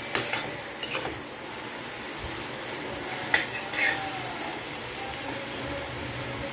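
Mushrooms and sweet corn frying with a steady sizzle in a wok over high flame, stirred with a metal spatula that scrapes and clicks against the pan a few times, the loudest click a little over three seconds in.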